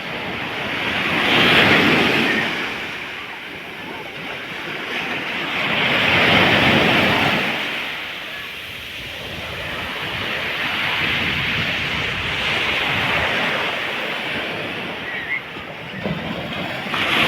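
Sea surf breaking on a beach: two loud waves break and wash in within the first seven seconds, followed by a longer, gentler wash of water.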